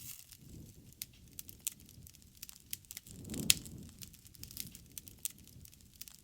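Wood fire crackling: irregular sharp pops and snaps over a low rush of flame, with one louder pop about three and a half seconds in.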